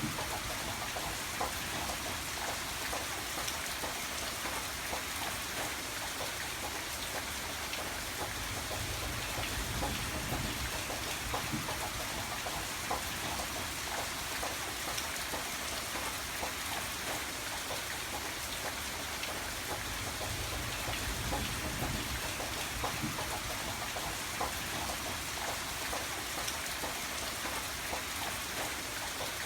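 Steady rainfall, with many small drops pattering on a surface.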